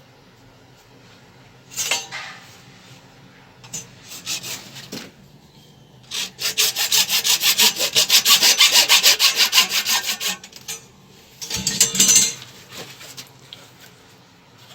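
Hand sawing in quick back-and-forth strokes: a short burst, a few strokes, then a long fast run of about six strokes a second, and one more short burst near the end.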